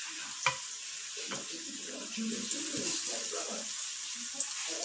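Sweet potato cubes frying in hot oil and syrup in a pan, with a steady sizzling hiss and a couple of knocks from a wooden spatula against the pan about half a second and just over a second in.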